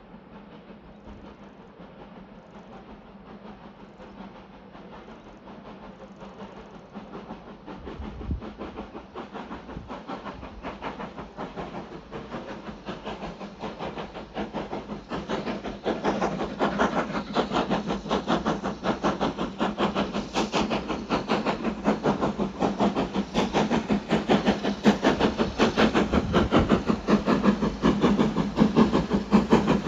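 Steam locomotive climbing a steep gradient, its exhaust beating in a fast, even rhythm with steam hiss, growing steadily louder as it approaches.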